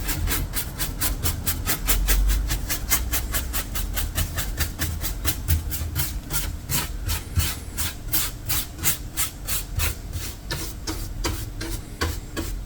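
Old paint and finish being worked off by hand, with fast back-and-forth rubbing strokes at about four a second.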